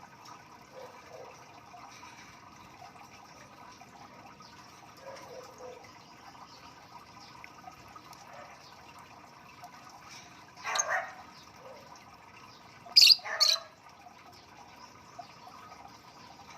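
African lovebirds chirping softly, with one loud shrill call about eleven seconds in and two more in quick succession about two seconds later.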